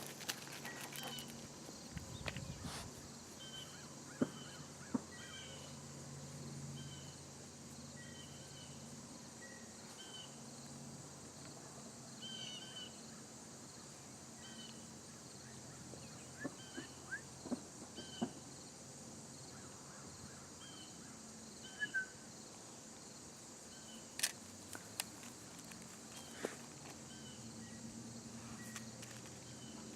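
Quiet outdoor ambience. Small birds chirp in short repeated calls over a low steady hum, with a few sharp clicks and knocks scattered through.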